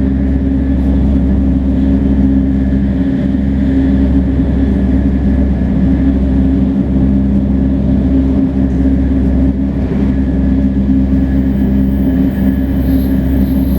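Shinkansen 500 series with Toshiba GTO-VVVF traction equipment running at steady speed: a constant low rumble with steady motor and inverter tones, and a few faint knocks from the track.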